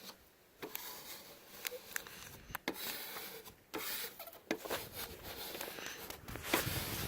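Application tool rubbing and scraping over a vinyl decal to flatten it onto the car, with scattered small clicks and scrapes.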